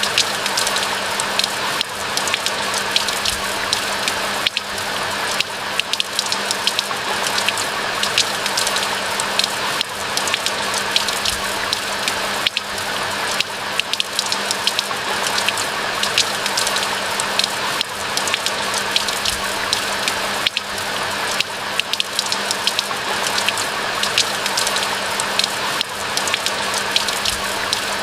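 Steady rain falling: an even hiss dotted with many sharp ticks of individual raindrops.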